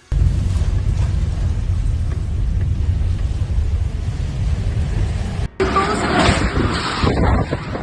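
Storm-force wind buffeting the microphone in a heavy, continuous low rumble. After a sudden cut about five and a half seconds in, gusty wind goes on with more hiss and rush in it.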